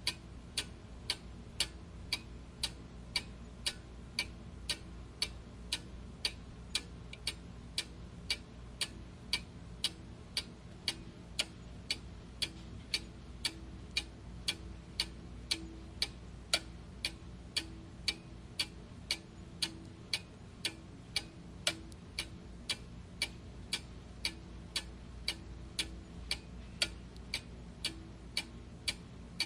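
Clock ticking steadily at about two ticks a second, with a faint low hum underneath.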